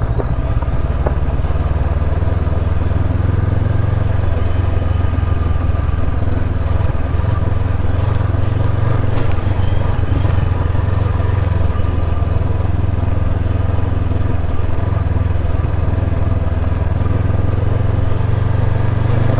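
Heavy motorcycle's engine running under way with a steady low note.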